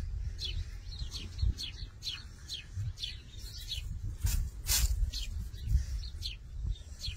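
Small songbirds chirping over and over, short quick falling chirps at about three a second, over a steady low rumble. A brief hiss comes about four and a half seconds in.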